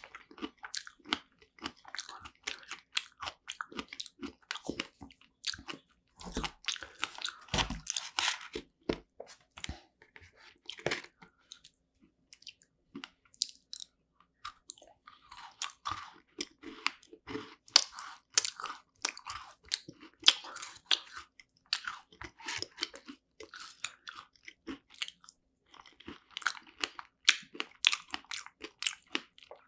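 Close-miked chewing and crunching of a strawberry rare cheese tart: the crisp pastry shell crackles in quick, irregular bites, with a brief lull about twelve seconds in.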